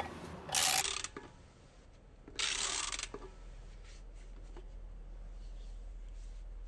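A short rasping scrape about two and a half seconds in, with a few faint ticks around it, from hand tools working the Torx bolts loose from a motorcycle's rear brake disc. A low steady hum runs underneath from the scrape onward.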